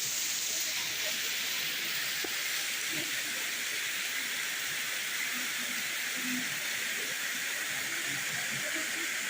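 Steady rush of falling water from Kurşunlu Waterfall, an even hiss that holds constant throughout.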